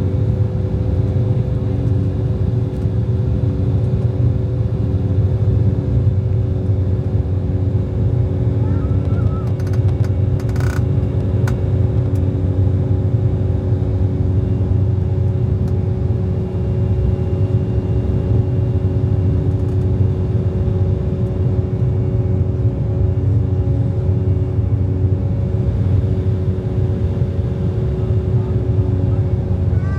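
Embraer 190's twin GE CF34 turbofans at takeoff power, heard inside the passenger cabin as a steady deep rumble with two steady engine tones.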